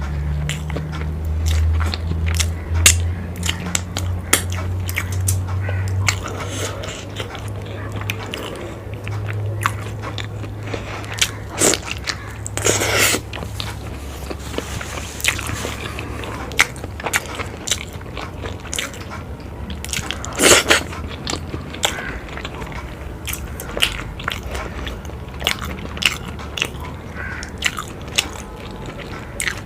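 Close-miked eating: a person biting and chewing, with frequent crunches and wet mouth clicks, and two longer hissing bursts partway through. A low hum runs under roughly the first half.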